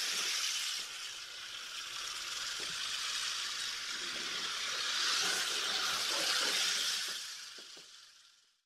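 Crested porcupine rattling its quills: a steady, dry hissing rattle with faint clicks through it, fading out near the end.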